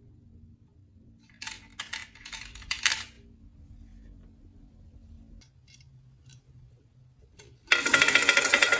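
Marbles clicking against a wooden marble run, a few sharp clacks, then a loud, dense clatter of many marbles rolling that starts near the end.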